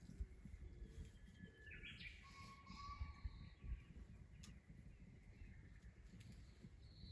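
Faint bird calls in near silence, with a quick rising call about two seconds in followed by a short held note.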